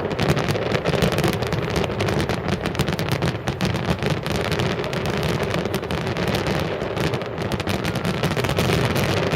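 Fireworks display: a dense, rapid run of bangs and crackles from aerial shells, without let-up.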